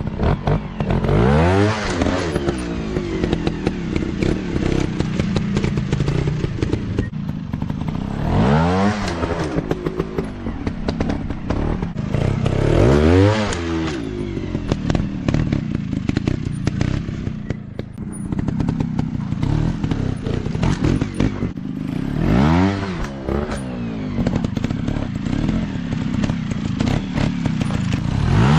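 Dirt bike engine running and revved hard about five times, each rev a quick rise and fall in pitch, with a clatter of quick ticks throughout.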